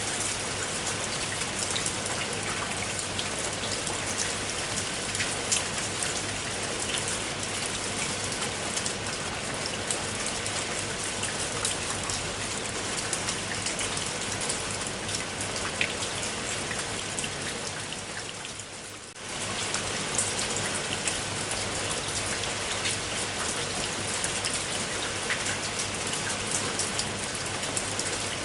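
Steady rain falling, with many sharp individual drop hits through the steady hiss. About two-thirds of the way through, it briefly fades down and then cuts straight back to full strength.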